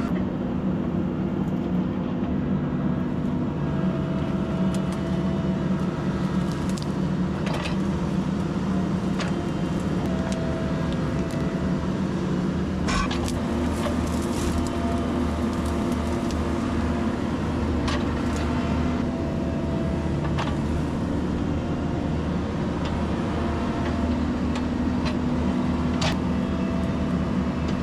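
Heavy diesel equipment running steadily: a tracked dump truck idling with an excavator working close by. Scattered clicks and knocks come every few seconds, and a faint whine comes and goes.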